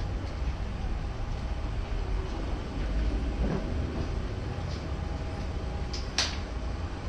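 Steady low rumble inside the cabin of a Boeing 737-700 airliner, with light knocks and one sharp click about six seconds in.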